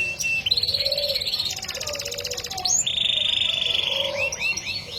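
Yorkshire-cross canary singing: a run of fast trills, each held about a second at a different pitch, then a few short rising chirps near the end.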